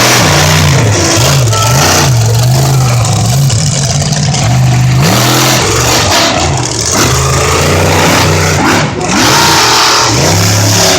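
Monster truck engine revving hard, its pitch rising and falling over and over.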